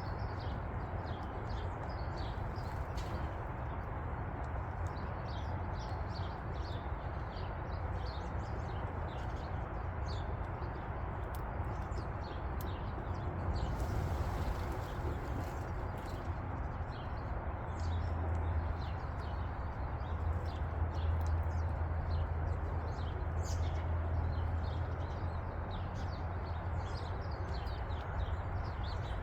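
Small songbirds chirping over and over in short high notes, over a steady low rumble that gets a little stronger in the second half.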